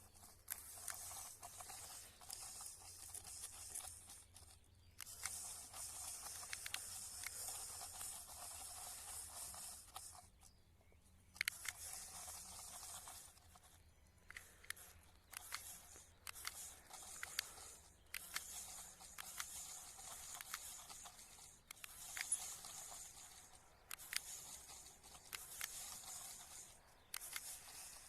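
Toy model tractor pulling a load: a faint scraping hiss in runs of a few seconds, broken by short pauses, with scattered sharp clicks.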